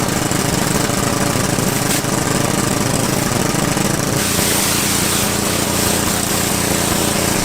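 Pressure washer running steadily, with water spraying hard through the spinning Karcher 15-inch surface cleaner attachment: a dense hiss over the pump engine's hum.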